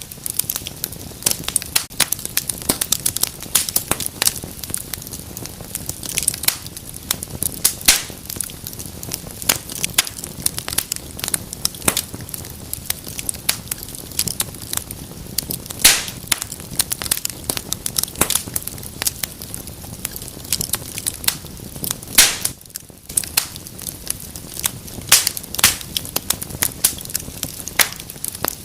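Wood fire burning in a fireplace, crackling and popping with many sharp, irregular snaps over a steady low hiss.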